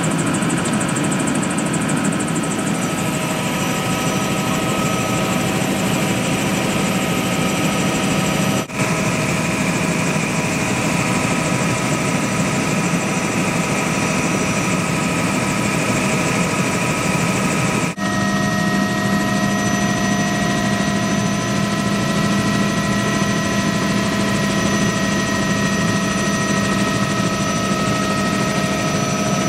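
Helicopter in flight: a continuous, steady rotor and engine noise with several steady tones running through it. It drops out for an instant twice, about 9 and 18 seconds in.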